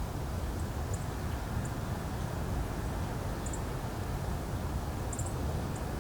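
Wind blowing across the microphone as a steady low rumble, with about six short, high bird chirps scattered through it.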